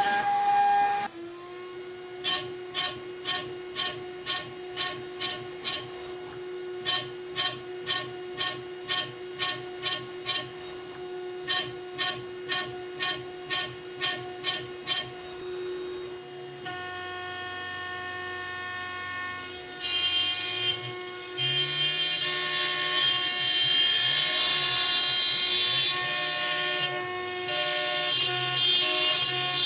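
A PrintNC CNC router's spindle runs with a steady whine, its end mill cutting birch wood in short loud bursts about twice a second, then quieter for a few seconds before a longer, louder continuous cut from about twenty seconds in.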